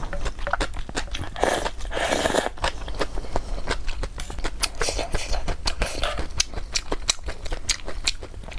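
Close-miked eating of snail noodles (luosifen) with tofu skin: wet chewing with many quick, irregular mouth clicks, and a couple of longer sipping sounds of broth from a spoon in the first few seconds.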